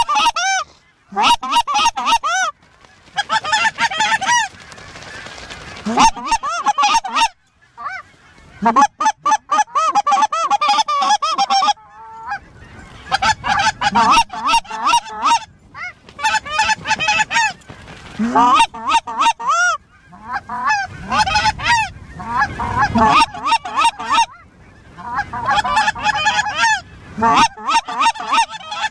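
Goose honks and clucks in fast, loud runs, one call after another, broken by short pauses.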